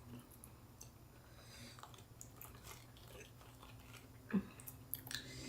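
Faint chewing of a fresh spring roll wrapped in rice paper: soft, scattered, wet mouth sounds, with one brief louder sound about four seconds in.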